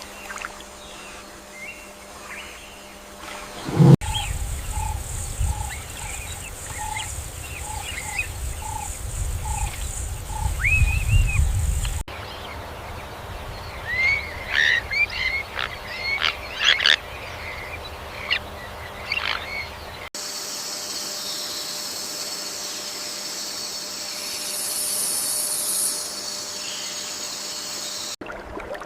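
A sequence of outdoor animal ambiences that changes abruptly about every eight seconds. It moves from faint chirps, to a low rumble with a run of short repeated calls, to a burst of sharp bird chirps, and ends on a steady high insect-like drone that swells into a louder buzz near the end.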